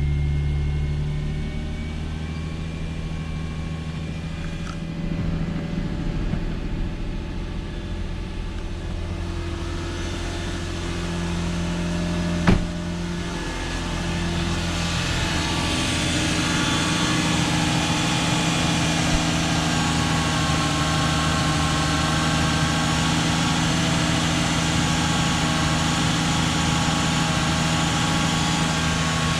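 2000 Lexus SC300's 2JZ-GE inline-six idling steadily shortly after a cold start. A single sharp click comes about twelve seconds in, and from a couple of seconds later the engine sound is brighter and a little louder.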